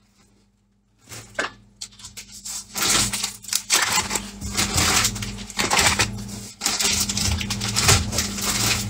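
Crunching of a dry, crispy instant-noodle snack being chewed close to the microphone: a few crisp cracks about a second in, then dense, continuous crunching from about three seconds on.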